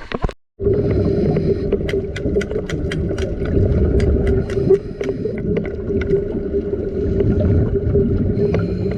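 Boat engine running with a steady low rumble and a constant hum, with scattered sharp clicks over it; it starts abruptly about half a second in.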